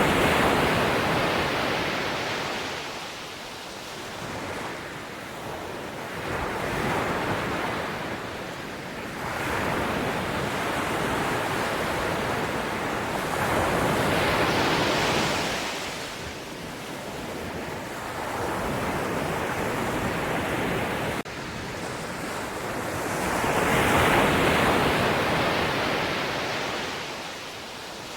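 Ocean surf: waves breaking and washing in, the rushing noise swelling and fading in slow surges about every seven to ten seconds.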